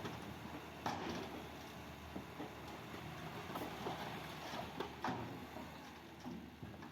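L&T Komatsu excavator's engine running steadily, with a couple of sharp knocks, one about a second in and another about five seconds in.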